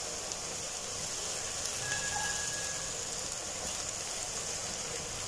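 Chopped onion and green chili frying in hot oil in a pan: a steady sizzle.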